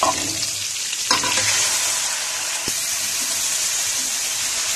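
Raw chicken pieces frying in hot oil in a pan, a steady sizzle, stirred with a metal wire skimmer. There is a sharp clatter at the start and again about a second in.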